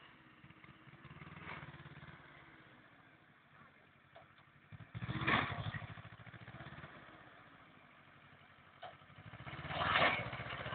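Tractor engine running with an even pulsing beat, revved up hard twice: once about five seconds in and again near the end, settling back toward idle in between.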